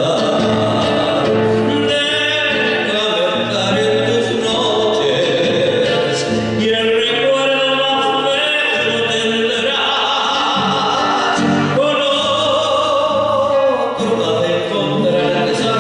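Argentine folk song performed live: sung vocals over instrumental accompaniment.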